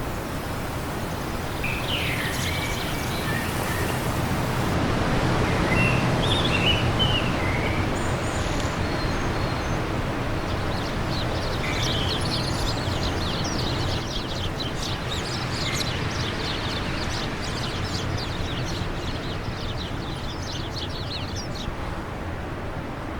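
Wind blowing steadily, swelling for a few seconds, with birds singing: a few short chirps, then a long rapid trill of high notes from about halfway until near the end.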